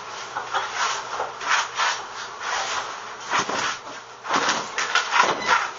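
Irregular scraping and rubbing on wood in short, uneven strokes, as the shed wall around the beehive is worked open.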